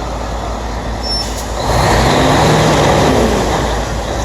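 Mercedes-Benz truck's diesel engine running, swelling louder for about two seconds in the middle with a brief rise and fall in pitch.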